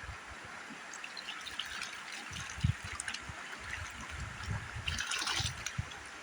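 River water trickling and splashing as a gold pan of gravel is worked in the stream, with small splashes and a louder slosh about five seconds in.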